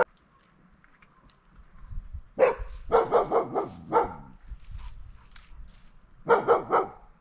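A dog barking in short, quick runs: a single bark, then a rapid string of about five, another single bark, and a run of three near the end.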